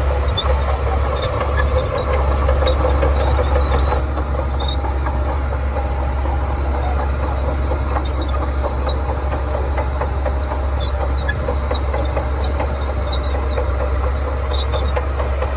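Shantui DH17C2 bulldozer's diesel engine running steadily under work, a little louder for the first few seconds.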